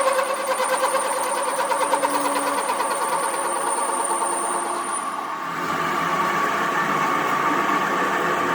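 A workshop machine running steadily with a pitched hum and fast rhythmic pulsing. A high whine drops out and the sound changes about five and a half seconds in.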